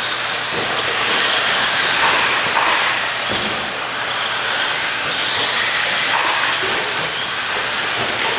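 Several radio-controlled racing trucks running on the track, their motors making high-pitched whines that rise and fall as they accelerate and back off, over a steady hiss of tyres and track noise.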